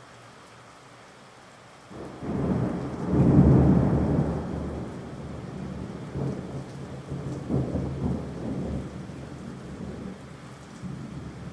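A peal of thunder breaks in about two seconds in, loudest a second or so later, then rumbles on unevenly over steady rain.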